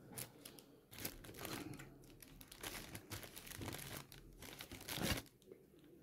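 Close-miked eating: crackly, crunchy chewing in irregular bursts, dying away about a second before the end.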